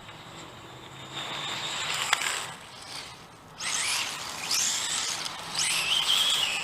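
Redcat Volcano RC car's electric motor whining as it accelerates in repeated bursts, the pitch climbing high and falling back three times, with tyre rush on pavement and a sharp click early on.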